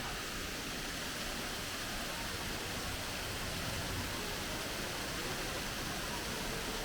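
A water feature running: a steady hiss of falling, splashing water.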